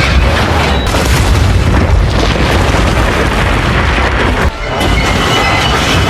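Film sound mix of heavy booming and crashing destruction effects over a dramatic orchestral score. There is a brief drop in level about four and a half seconds in.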